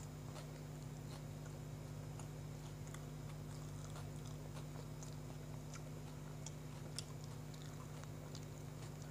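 A person chewing a mouthful of soft bread sandwich, with faint scattered wet mouth clicks and one sharper click about seven seconds in. A steady low hum runs underneath.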